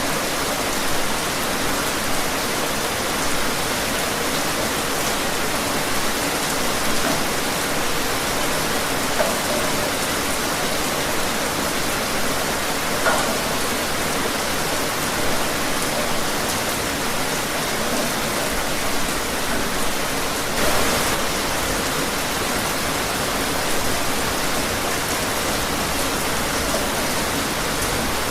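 Steady rain falling, an even hiss with scattered faint drop ticks and a brief swell about two-thirds of the way through.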